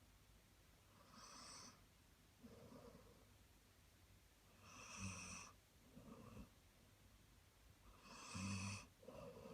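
A sleeping dog snoring faintly, in slow rhythm: three rasping in-breaths about three and a half seconds apart, each followed by a softer, lower out-breath, like Darth Vader's breathing.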